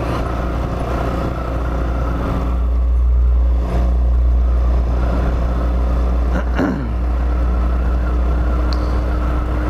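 Hawk 250 dual-sport motorcycle's air-cooled single-cylinder engine running under way, with heavy wind rumble on the microphone. It gets louder over the first few seconds and dips briefly just before halfway, then runs steadily.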